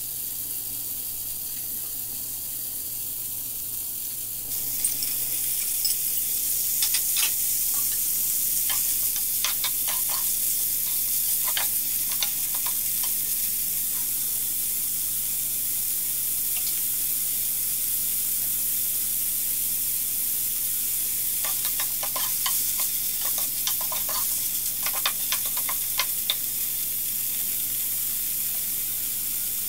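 Tiger prawns sizzling in oil in a frying pan over high heat. About four and a half seconds in the sizzle jumps louder as broccoli, pineapple and bamboo shoots go into the pan. A utensil taps and scrapes against the pan in short bursts of stirring around the middle and again near the end.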